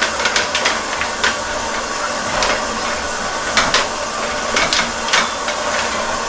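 Drain inspection camera's push cable being fed through a drain line: a steady hiss with irregular sharp clicks and ticks.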